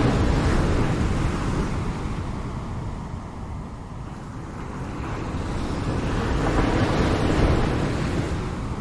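Ocean waves breaking on a shore: one surge fades through the first few seconds, then a second wave builds and crashes about seven seconds in before receding.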